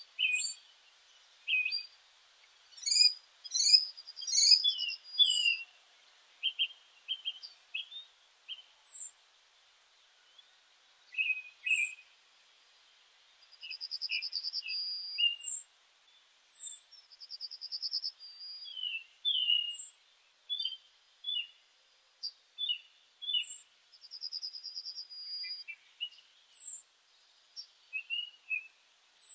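Small songbirds singing: short high chirps repeating every second or two, with brief trills and lower chirps in between.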